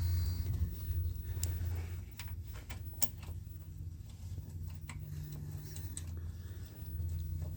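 Scattered light clicks and taps of metal parts being handled and fitted during reassembly of a shaper's bearing block, over a low hum that is louder at the start and again near the end.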